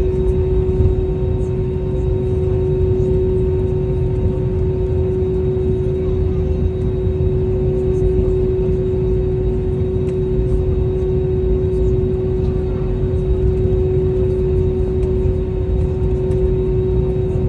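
Airbus A320-271N with Pratt & Whitney PW1127G geared turbofans under way: a steady low rumble of engines and airflow with a constant mid-pitched hum over it.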